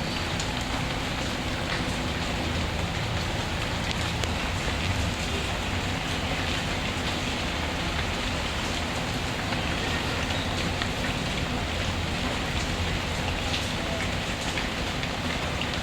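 Steady rain falling, with the light crackle of a wood fire mixed in as scattered small ticks.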